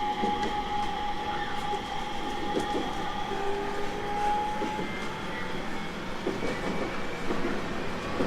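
JR East 701 series 1000-subseries electric train running at a steady speed. A steady whine of several high tones sits over the running rumble, and the wheels clack over rail joints now and then.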